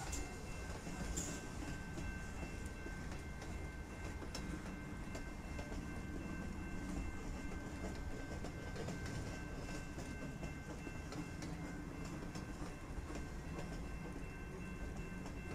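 Freight train of flatcars rolling past a grade crossing: a steady low rumble with scattered wheel clicks, and a thin steady high ringing held throughout.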